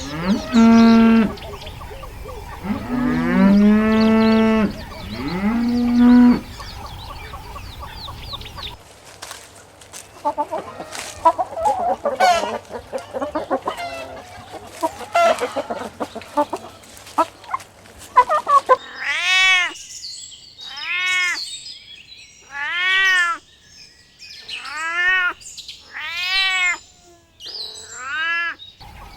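Farm animals calling in turn. A few drawn-out calls in the first six seconds give way to a stretch of chickens clucking, and the last ten seconds hold short bleats that rise and fall, about one every second and a half.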